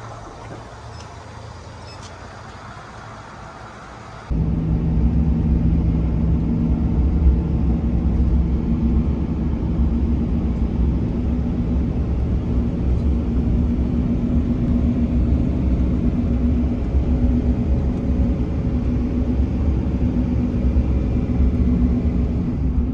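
A motor vehicle's engine running steadily with a loud low drone, which starts abruptly about four seconds in after fainter background noise.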